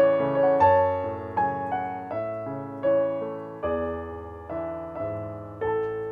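Piano playing a slow, measured melody over bass notes and chords, with a new note or chord struck about every three-quarters of a second, each one fading away before the next.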